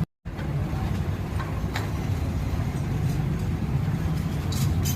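Suzuki Access 125 scooter's single-cylinder four-stroke engine idling steadily, running after a new timing chain, rockers and camshaft were fitted. The sound cuts out for a moment at the very start.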